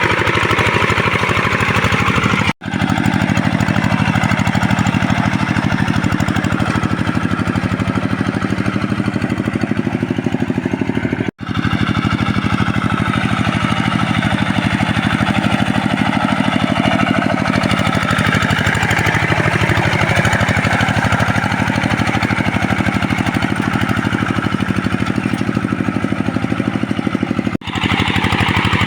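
Two-wheel hand tractor engine running steadily with a fast, even chugging beat. The sound cuts out abruptly for a split second three times.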